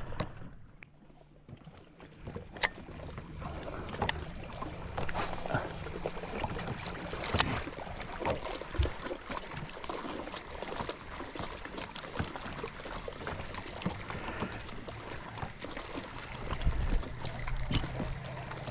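Water sloshing and trickling around a small fishing boat, with scattered light clicks and knocks. The sound starts after a quiet first couple of seconds.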